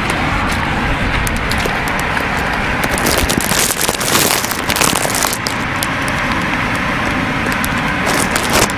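Motor vehicle running in a rain-flooded street, with a steady low rumble and crackling, and a louder rush of splashing water about three seconds in and again near the end.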